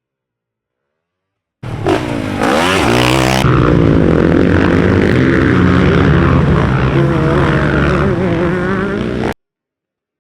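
Dirt bike engine running hard, starting abruptly about a second and a half in. Its pitch dips and climbs once, then holds steady until it cuts off suddenly near the end.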